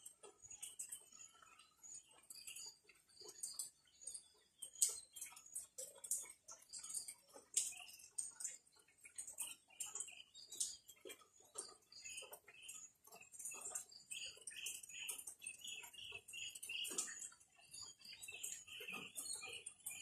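Birds chirping: many short, scattered chirps and ticks, then a run of quick repeated calls, about two or three a second, in the last third.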